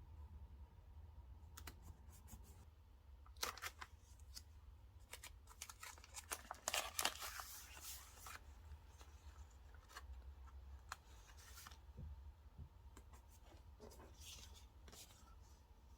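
Desk crafting sounds from decorating a paper diary: scattered small clicks and short papery rustles of stickers and paper being handled, cut or peeled, with a denser rustle about six to eight seconds in. A low steady hum sits underneath.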